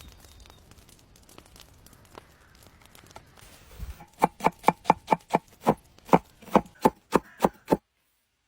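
Knife chopping food, about a dozen quick, even strokes at roughly three to four a second, starting about four seconds in. The chopping cuts off abruptly near the end.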